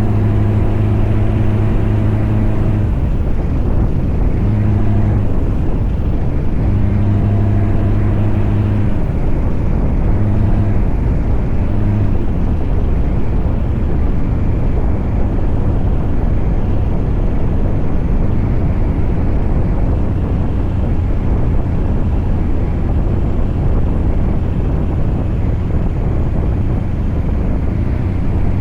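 Scania V8 truck engine running while the truck is under way, a loud, steady low rumble. For the first twelve seconds a deep, even drone swells in and drops out several times, then only the even rumble remains.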